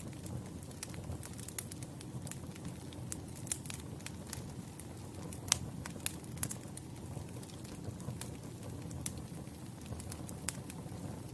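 Wood fire burning with a steady low rumble and irregular sharp crackles and pops; one pop a little over five seconds in is the loudest.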